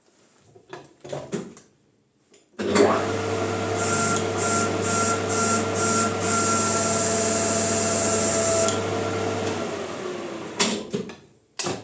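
Electric motor of a metal lathe switched on, running steadily with a low hum and a whine for about seven seconds, then switched off and spinning down. Two sharp clacks follow near the end.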